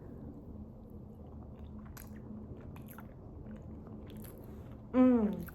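A person chewing fufu dipped in okra soup: small wet mouth clicks over a faint steady hum. About five seconds in, a short hummed vocal sound falling in pitch.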